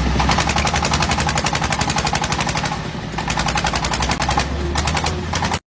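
Heavy truck's diesel engine with a rapid staccato exhaust rattle, about a dozen sharp pulses a second over a low steady hum. The sound cuts off suddenly near the end.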